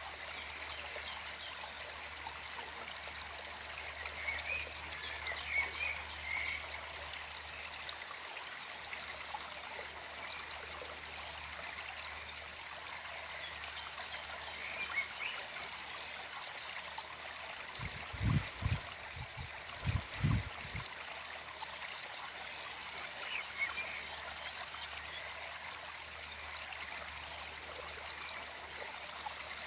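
Small forest stream flowing steadily. Short high calls from a small animal come in clusters every several seconds, and a few low thumps sound a little past the middle.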